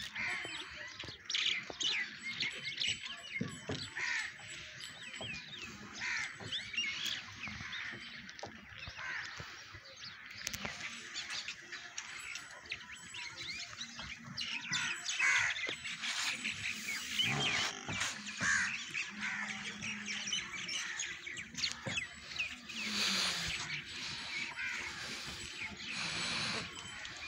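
Many birds chirping and calling busily, with short overlapping chirps throughout.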